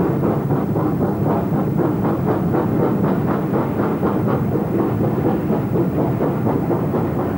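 Great Western Hall-class two-cylinder 4-6-0 steam locomotive working a train: a loud, steady run of rhythmic exhaust beats, about four or five a second, over a heavy rumble.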